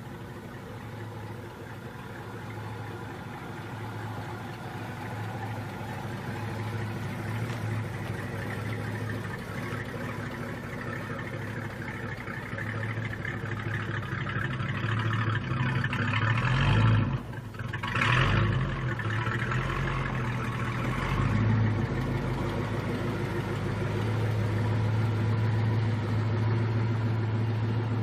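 A car engine running steadily and growing gradually louder. About two-thirds of the way through it briefly drops away, then comes back in louder surges before settling into a steady, louder run.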